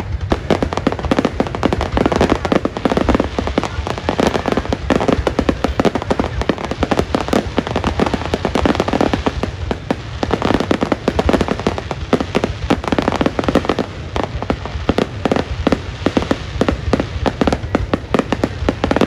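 Fireworks display going off: a dense, continuous run of rapid bangs and crackles over a low rumble.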